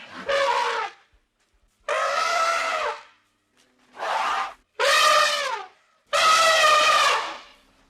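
An animal calling five times, each call a drawn-out, brassy cry of up to about a second and a half, with short pauses between.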